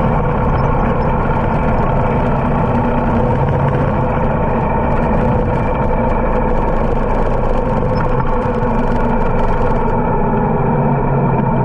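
Harley-Davidson motorcycle's V-twin engine running steadily at a constant loud level.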